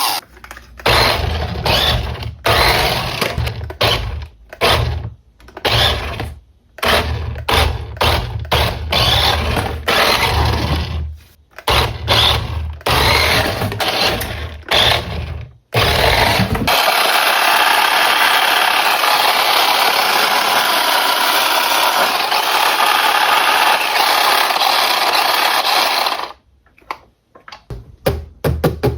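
Small electric motor of a 1:20 remote-control toy car running in many short start-stop bursts with a low hum, then one steady run of about nine seconds, ending with a few light clicks.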